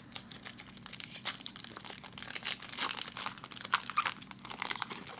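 Trading card pack wrapper being torn open and crinkled by hand: a run of quick, dense crackles.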